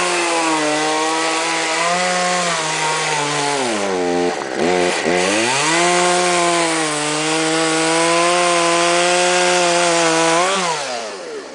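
Chainsaw running at high revs, cutting wood. About four seconds in, its speed drops sharply for a moment and then revs back up. Near the end it winds down.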